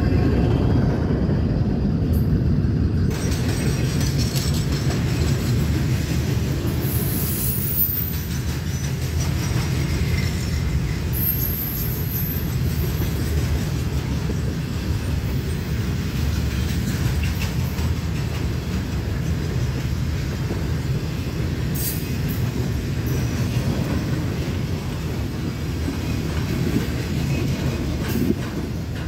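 Union Pacific train's cars rolling past: a steady low rumble of wheels on rail. The end of a horn blast fades out in the first second, with a few brief high-pitched wheel squeals along the way.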